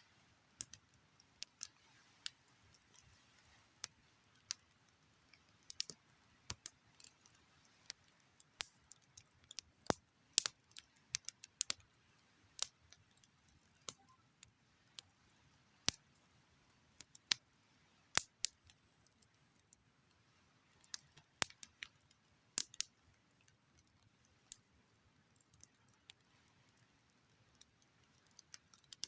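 Campfire wood burning and crackling, with irregular sharp pops and snaps, a few of them loud, over a quiet background.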